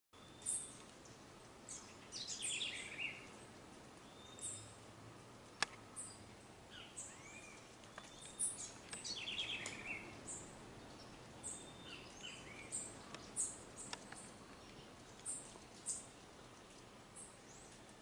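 Wild birds calling over a faint steady hiss: scattered short chirps, upward-sliding whistles and a couple of fast stuttering series of notes, with one sharp click about five and a half seconds in.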